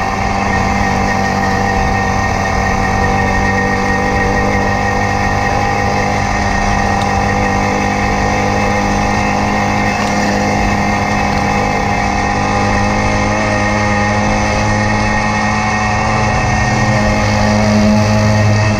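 Hercules Prima moped's 50 cc two-stroke engine running steadily under way, getting a little louder near the end.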